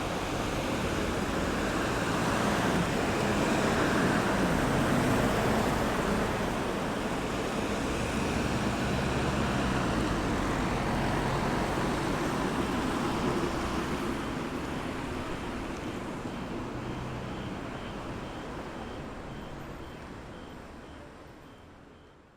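Road traffic at a roundabout: cars and heavier vehicles running and passing by, with engine hum and tyre noise. The sound is loudest a few seconds in, then fades away steadily toward the end.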